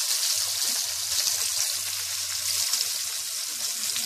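Pork chop frying in hot canola oil in a skillet, a steady sizzle with fine crackling.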